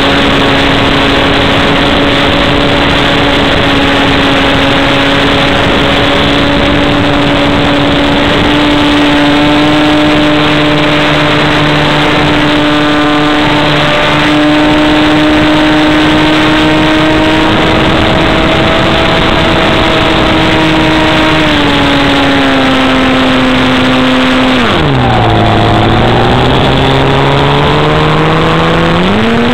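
RC model airplane's motor and propeller running at a steady drone for most of the time. About 25 seconds in the pitch dips sharply, then climbs back up near the end.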